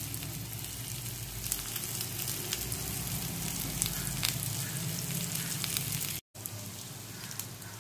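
Sliced cabbage-leaf rolls shallow-frying in oil with sesame seeds on a low flame: a steady sizzle with small scattered crackles. The sound cuts out for a moment about six seconds in.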